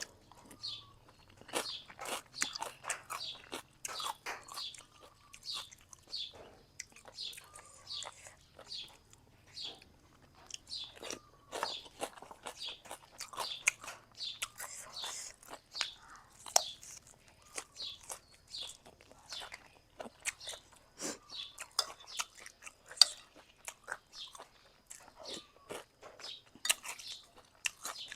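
A person chewing and eating Thai boat noodle soup with sliced pork close to the microphone: a steady run of short mouth clicks and smacks, two or three a second.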